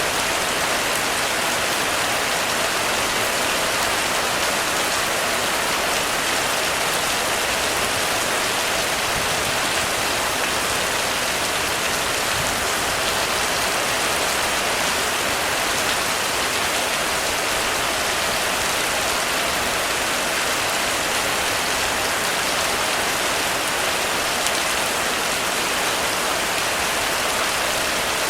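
Heavy rain falling steadily on a roof, a dense, even hiss with no thunder.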